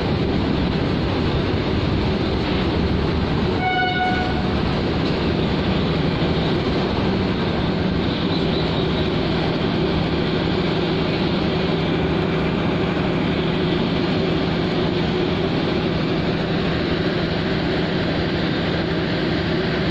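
Steady noise of a train running on the tracks as a container freight train passes, with one short, high-pitched train horn blast about four seconds in.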